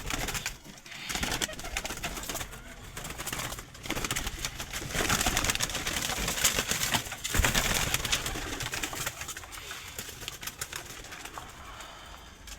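Young flying pigeons in a loft, with cooing over a constant rustling and scuffling, loudest in the middle. A sharp knock comes about seven seconds in.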